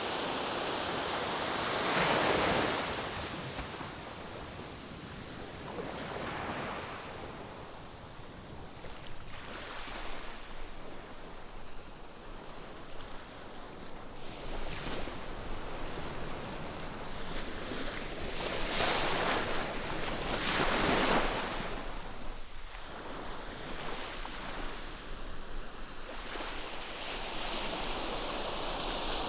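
Ocean surf breaking on a sandy beach, waves washing in one after another, the loudest surges about 2 s, 19 s and 21 s in, with some wind on the microphone.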